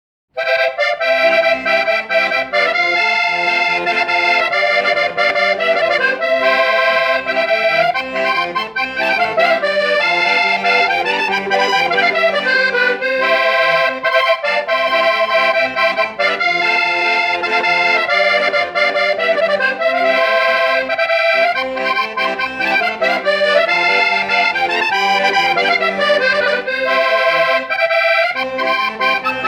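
A three-row diatonic button accordion (concertina in G/C/F) playing a traditional Portuguese folk melody, with the right-hand tune over steady bass-and-chord accompaniment. It starts abruptly at the opening.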